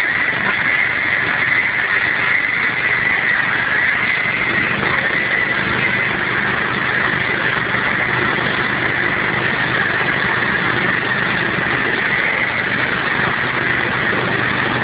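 Ride-on lawn tractor, its speed restriction removed, running steadily at top speed across a field.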